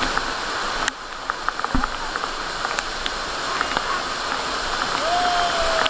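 Steady loud hissing rush of noise, dropping a little in level about a second in, with a brief tone that slides slightly downward near the end.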